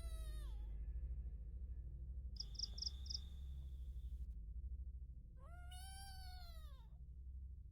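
An animal's drawn-out cry that rises and falls in pitch, heard twice: once at the start and again about five and a half seconds in, which the campers take for a goat bleating. A quick run of four high chirps comes about two and a half seconds in.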